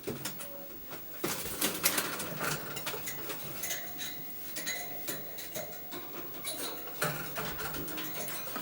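Ring-necked parakeets clattering about, a run of small clicks, taps and scrapes like beaks and claws on a dish or cage, with a few faint soft calls.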